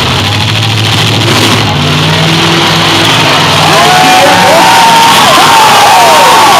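Demolition derby car engines running, with a crowd cheering and whistling that swells about halfway through.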